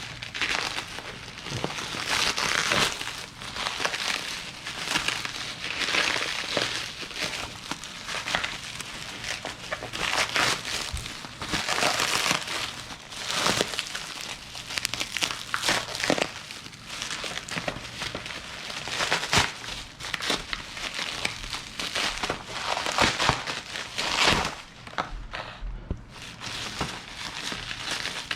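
Plastic packaging crinkling and crackling as it is handled and opened, in irregular rustles throughout.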